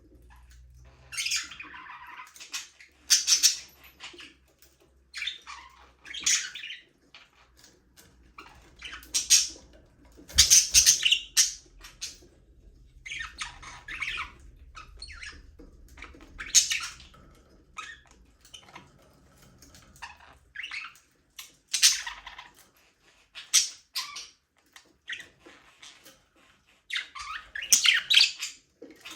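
Budgerigars chirping and squawking in irregular bouts of short, high calls, with brief pauses between them.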